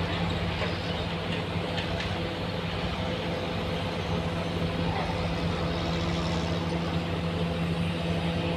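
Truck engine running steadily with an even hum.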